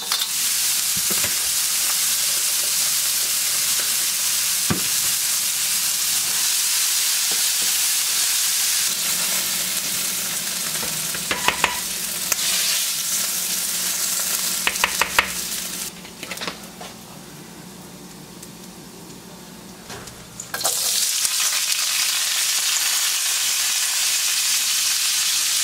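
Chopped onions and minced garlic sizzling in hot oil in a wok while being stirred, with a few metallic clinks of the utensil against the pan. Partway through the sizzle drops to a low level for a few seconds, then comes back loud.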